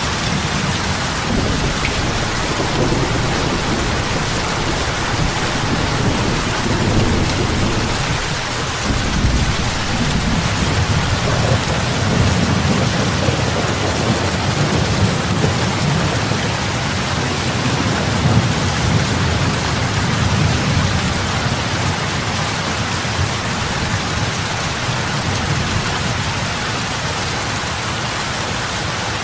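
Heavy rain falling on lake water, a steady dense hiss of drops splashing on the surface. A low rumble swells and fades underneath for most of it, dying away near the end.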